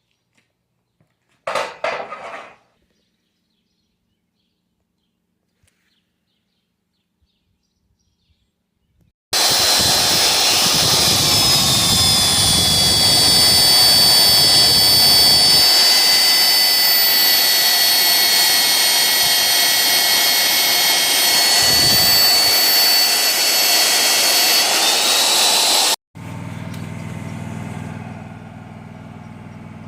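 A power tool working on steel plate runs loudly and steadily for about sixteen seconds with a high whine, then stops abruptly. After it, an engine idles steadily.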